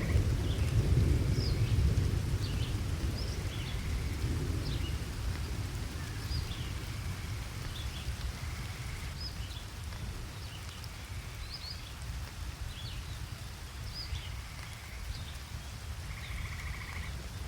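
Steady rain with a low rumble of thunder that is loudest in the first few seconds and slowly fades.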